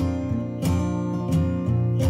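Background music: an acoustic guitar strummed in a steady rhythm, about one strum every two-thirds of a second.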